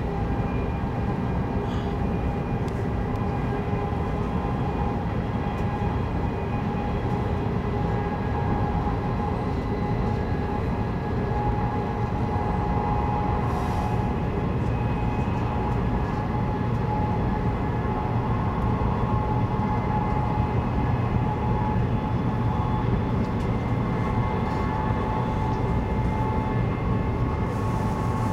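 Cabin running noise of a CRH2 high-speed electric multiple unit: a steady rumble of wheels on the rails, with a thin motor whine that drifts slowly up in pitch.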